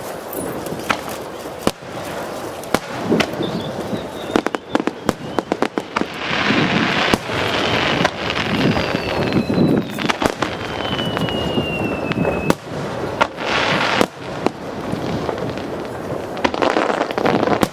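Aerial fireworks going off in a dense barrage, many sharp bangs and crackles over a rumble of bursts, with one long falling whistle midway.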